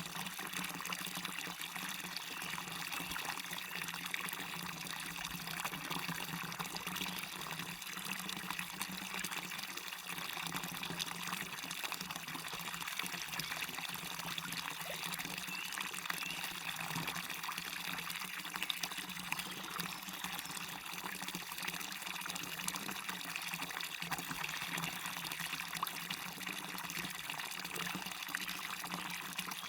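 Small waterfall splashing steadily into a stream: a constant rush of falling water with many small splashes, brightest in its higher tones.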